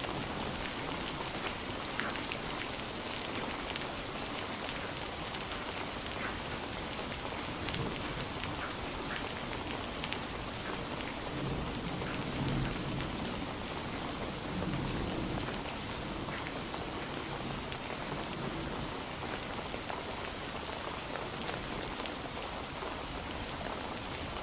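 Steady rain, with many separate drops ticking. A low rumble of thunder swells and fades around the middle.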